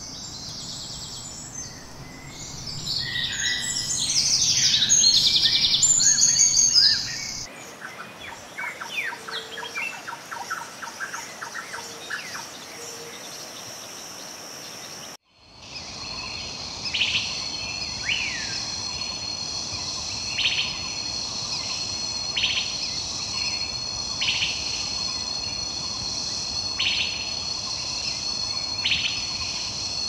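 Rainforest soundscape of birds calling and chirping. The first part is dense and loud, followed by a run of quick repeated notes. After an abrupt cut about halfway through, a steady high insect chorus continues, with a short bird call about every two seconds.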